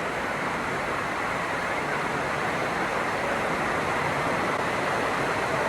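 A steady, even rushing noise that does not break or change.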